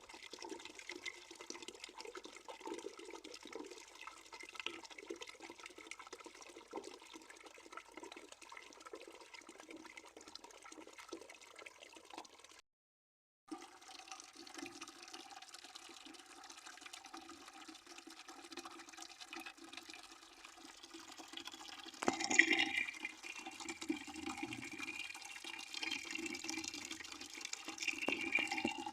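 Water running steadily into a bucket as it fills, a continuous splashing with a faint ringing pitch to it. It cuts out completely for under a second near the middle, and about 22 seconds in it suddenly gets louder and splashier.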